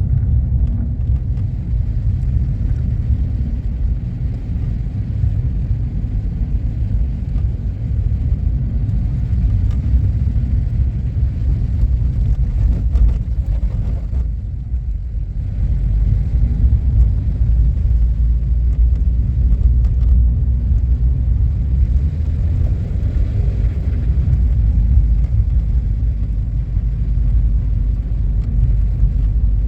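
Blizzard wind buffeting the microphone: a loud, steady low rumble, easing briefly about halfway through.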